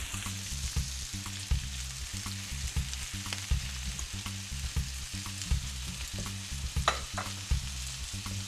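Green beans, Brussels sprouts and butternut squash sizzling steadily in olive oil in a skillet as sliced red onion is added. Irregular low knocks and a couple of sharp clicks come from the pan being worked, near the end.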